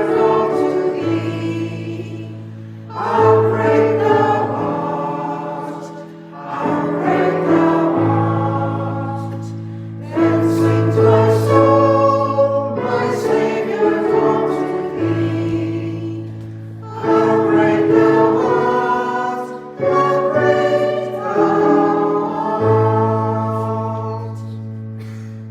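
A hymn sung by many voices over sustained low accompaniment, in phrases of three to four seconds; the final chord fades away near the end.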